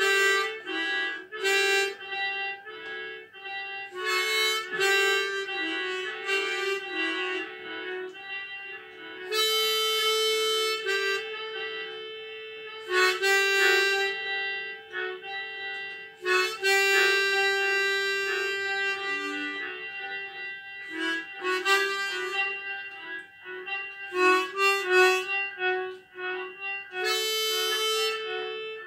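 Harmonica playing a slow melody, short phrases mixed with long held notes.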